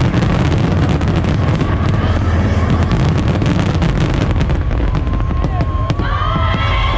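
A festival fireworks display: rapid crackling and popping bursts over a heavy, continuous low rumble of booms. About six seconds in, pitched gliding tones of music come in over it.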